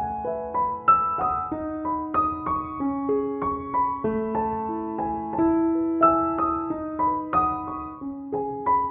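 Soft piano background music: a calm melody of single struck notes over slower, lower bass notes.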